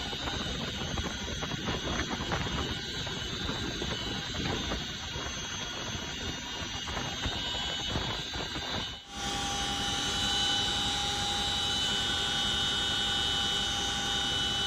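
Army helicopters flying over, turbine engines and rotors running with a high whine. About nine seconds in the sound switches abruptly to a steadier, more tonal whine.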